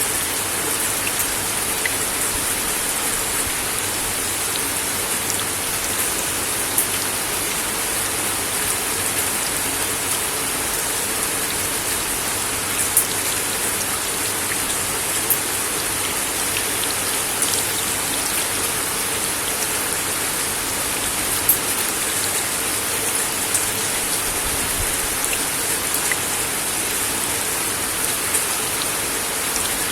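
Steady rain falling on a wooden deck: a constant hiss with scattered sharp ticks of single drops here and there.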